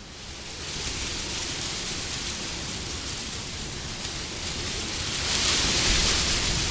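Wind blowing in gusts as a steady rushing noise, swelling to a louder, hissier gust about five seconds in before easing slightly.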